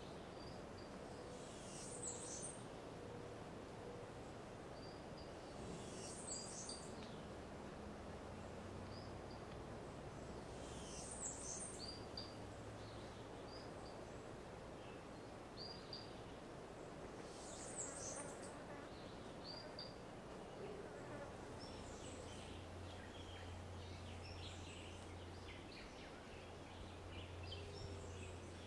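Faint forest ambience: a bird gives a short high call four times, about every four to six seconds, with softer chirps between that grow busier near the end. A low steady hum lies under it.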